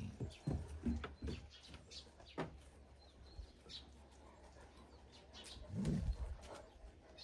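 Small birds chirping on and off in short high calls, with a few low, muffled sounds near the start and again about six seconds in.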